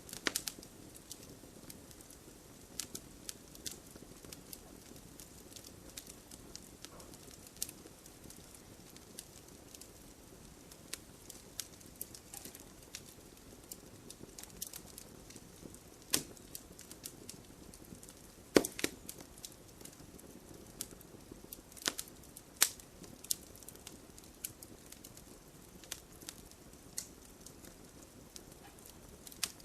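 Wood fire crackling and popping: sharp pops at irregular intervals, a few louder snaps among them, over a low, soft hiss of burning.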